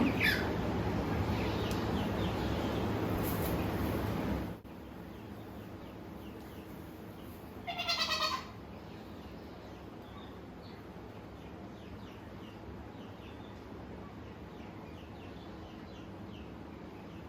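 A goat bleats once, briefly, about eight seconds in. Before that, a steady hiss-like noise cuts off suddenly at about four and a half seconds, and faint bird chirps follow the bleat.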